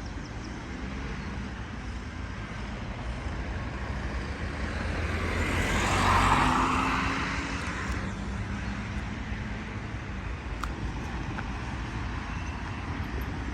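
Street traffic with one vehicle passing close by, growing louder and then fading about six seconds in, over a steady low traffic rumble.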